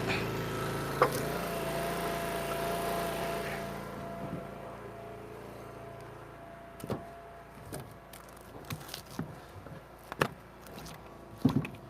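Eastonmade log splitter's engine running steadily, quieter from about four seconds in, with a few separate sharp knocks of wood being handled near the end.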